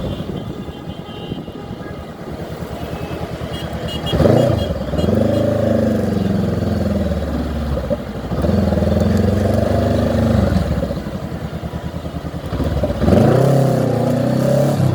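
Motorcycle engine pulling away and accelerating, its pitch climbing sharply about four seconds in, again near eight and a half seconds, and once more near thirteen seconds, holding or easing off in between.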